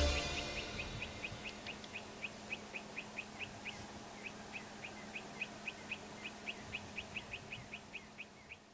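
A bird chirping in a long, evenly paced series of short high chirps, about four a second, with a faint steady hum underneath; the chirps fade out near the end.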